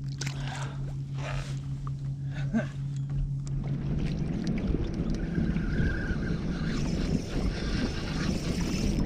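Water splashing around a fishing kayak while a fish is played on the line, over a steady low hum that stops about three and a half seconds in; after that, low rumbling wind noise on the microphone.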